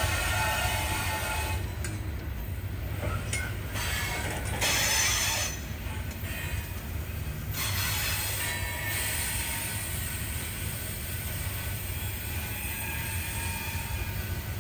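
CSX freight train's open-top coal hopper cars rolling past: a steady low rumble of steel wheels on rail, with bursts of higher wheel squeal and screech about five and eight seconds in.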